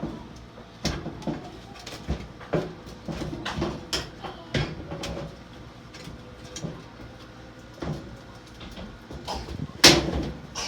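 Sheet-metal parts of a clothes dryer knocking and scraping as they are lined up and fitted back together, with irregular clunks and one louder bang about a second before the end.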